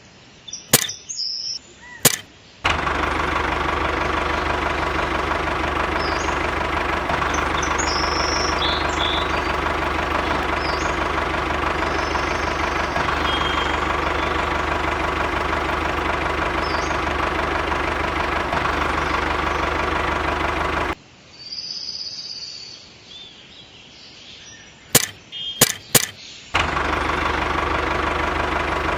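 A small engine running steadily at an even speed, starting and stopping abruptly twice, with a few sharp clicks in the gaps.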